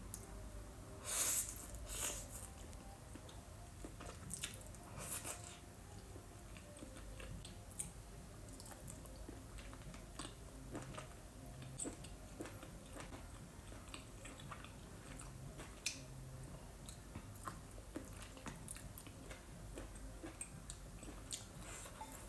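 Close-miked mouth sounds of eating spicy noodles with boiled octopus: chewing and biting, with a couple of louder bursts in the first few seconds and then scattered small wet clicks.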